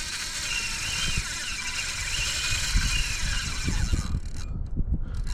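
Wind buffeting the microphone in irregular low rumbles over a steady hiss of open water; the hiss briefly drops out about four seconds in.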